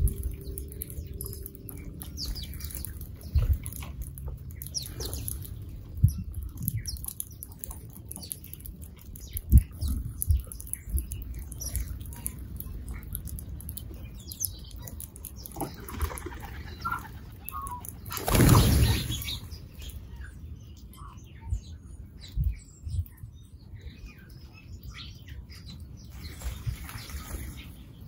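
Small wild birds at a feeder chirping and calling in short, scattered notes, with scattered low knocks and one brief loud rush of noise about two-thirds of the way through.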